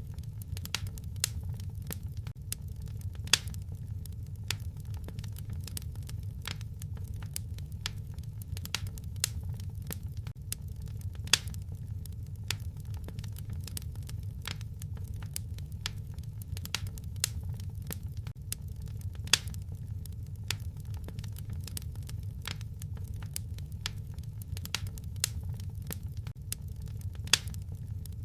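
Wood fire crackling in a fireplace: a steady low rumble of the flames with irregular snaps and a few louder pops.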